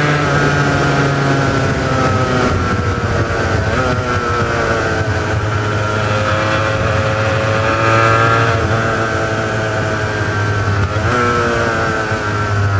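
Honda NS400R's two-stroke three-cylinder engine running on its original mufflers while riding, its note falling and climbing again several times as the revs change.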